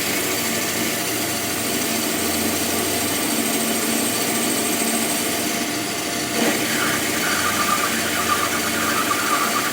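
A workshop machine running steadily, with a change in its sound about six and a half seconds in.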